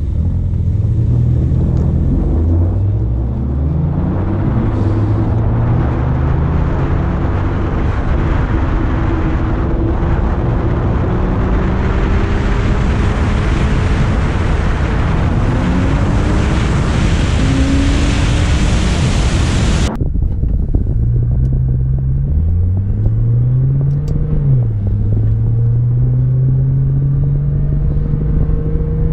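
Cars accelerating hard through the gears: engine pitch climbs and drops back at each upshift, under loud wind noise on an outside-mounted camera that builds with speed. The wind noise cuts off abruptly about two-thirds of the way through, leaving a car's engine heard from inside the cabin, climbing in pitch again with one shift.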